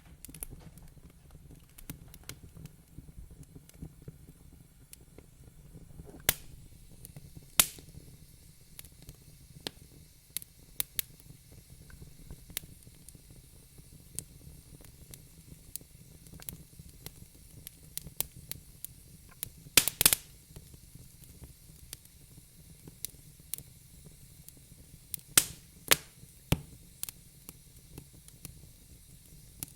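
Fireplace fire crackling: irregular small snaps and pops over a soft steady rumble and hiss, with a few louder pops scattered through.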